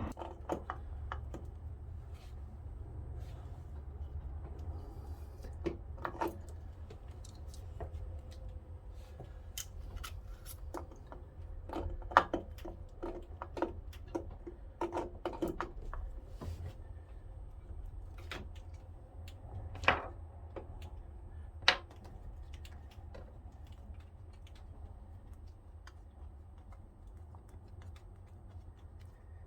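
Scattered metallic clicks and clinks of a spanner and nut as a starter motor is being bolted on, with a few sharper knocks about a third of the way in and twice around two-thirds of the way. A steady low hum runs underneath.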